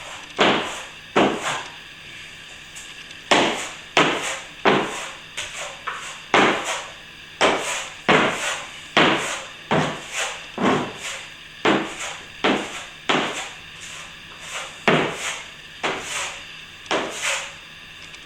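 Plastering trowel working over setting plaster in repeated short strokes, about one a second, each a quick scrape that fades away.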